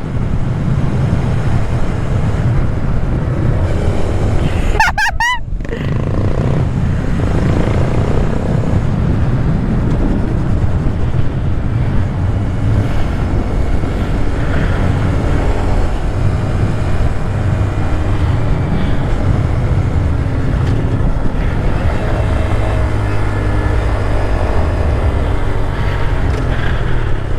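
Wind buffeting the microphone on a moving Honda Grom, its small single-cylinder engine running underneath, with a brief dropout about five seconds in.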